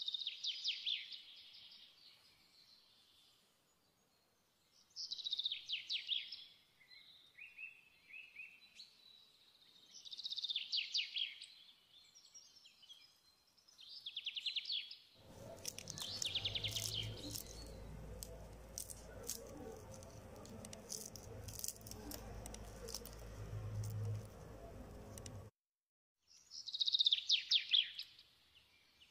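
A songbird singing short, rapid phrases of high notes, repeated about every five seconds. Through the middle there is a stretch of steady low hum with scattered faint clicks, which cuts off suddenly.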